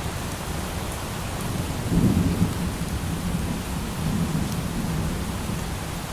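Low thunder rumbling in about two seconds in, loudest at its start, then rolling off over a few seconds, over the steady hiss of light rain.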